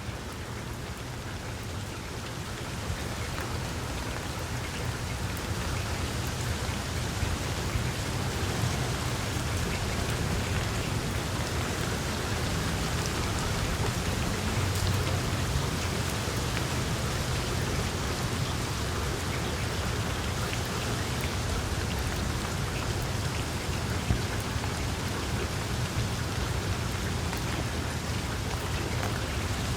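Wood fire crackling in a fireplace: a dense run of small crackles with a few louder pops, over a low steady rumble.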